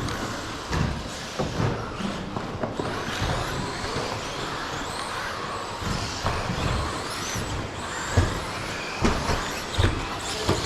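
Several 13.5 brushless-motored radio-controlled stadium trucks racing: a thin electric motor whine rising and falling as they accelerate and brake, over a steady noise of tyres and track, with scattered short thumps.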